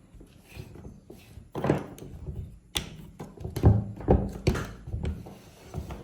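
A handful of clunks and knocks as the compact router and its kit parts are handled and set down, the loudest a little past halfway.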